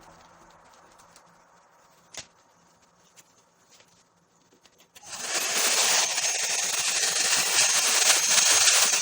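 Near quiet with a faint click about two seconds in, then about halfway through a Ubeator hot air brush hair dryer switches on suddenly and runs steadily: a loud rush of blown air with a thin, high whine on top.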